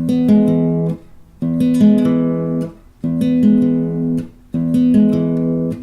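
Acoustic guitar fingerpicked in a repeated arpeggio exercise: the same short pattern of plucked notes played four times over the same chord, the strings silenced briefly between each repeat.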